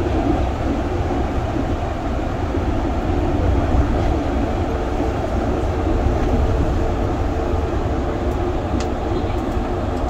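A Yurikamome rubber-tyred automated train running, heard from inside the car: a steady low rumble with running noise, and a faint steady hum that comes in about four seconds in.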